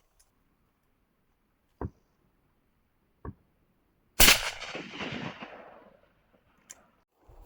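A single shotgun shot at ducks about four seconds in, loud and sudden, echoing away over about two seconds. Two short sharp knocks come before it.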